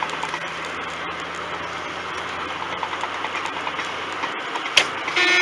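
Steady running noise of a moving vehicle with a low engine hum, heard from inside the vehicle; a vehicle horn starts sounding in one long steady blast near the end.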